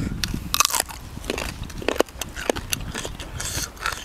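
A person chewing and crunching mouthfuls of food close to the microphone, with many short, irregular crisp crackles and mouth clicks.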